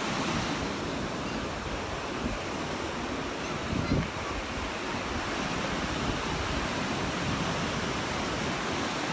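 Gulf of Mexico surf breaking and washing up the beach, with wind buffeting the microphone and a brief thump about four seconds in.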